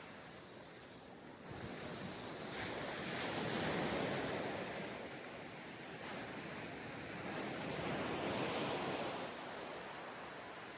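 Ocean waves breaking and washing up a sandy beach, two swells of surf a few seconds apart, with some wind on the microphone.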